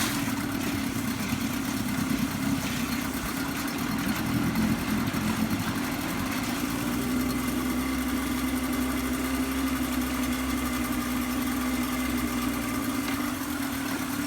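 1973 Mercury 110 9.8 hp two-stroke outboard, with a freshly rebuilt carburettor, running steadily at idle in a test barrel. A low rumble comes in about halfway through and drops away shortly before the end.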